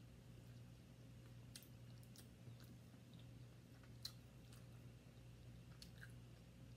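Faint mouth sounds of a person chewing food: scattered small wet clicks, one sharper than the rest about four seconds in, over a low steady hum.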